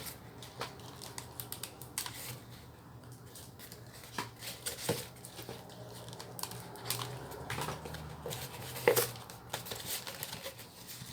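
Light clicks and rustles from hands handling EVA foam pieces and craft materials, with one sharper click about nine seconds in, over a steady low hum.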